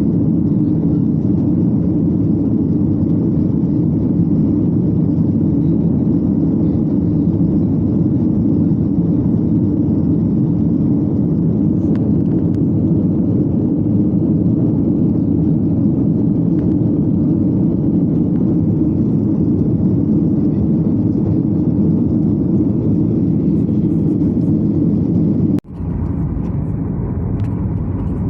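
Steady, loud drone of a Boeing 737-800's engines and rushing air inside the cabin. About 26 seconds in it cuts out for a moment, then carries on duller.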